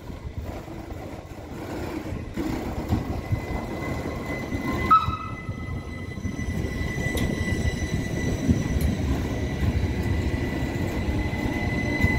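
A rail vehicle running with a low rumble that grows louder, and a thin steady high tone above it.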